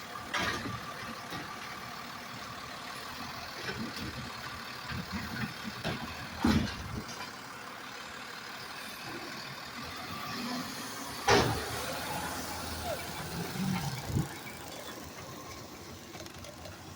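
Recycling truck running steadily, with a few sharp clunks and knocks, the loudest about eleven seconds in.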